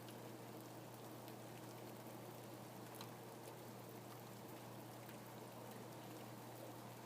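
Steady, faint rain falling, with scattered individual drops ticking through it and a low steady hum underneath.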